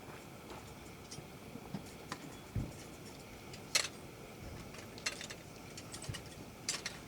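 A few scattered sharp clicks and light knocks over a faint steady background, with one dull low thump between two and three seconds in.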